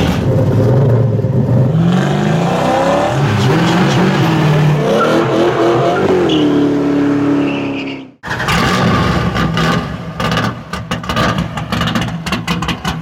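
V8 muscle car engine revving, its pitch climbing and falling several times. About eight seconds in it breaks off suddenly, and a rapid, uneven popping burble follows.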